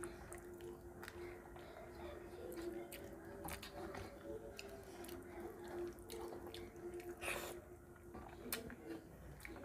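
Close-up eating sounds of rice and fish curry eaten by hand: scattered wet mouth clicks and smacks while chewing, with a steady low hum underneath.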